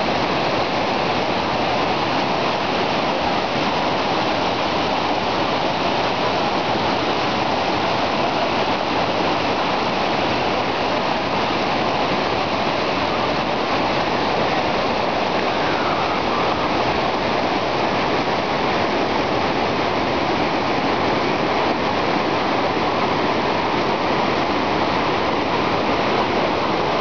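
Waterfall cascades pouring with a steady, loud rush of water.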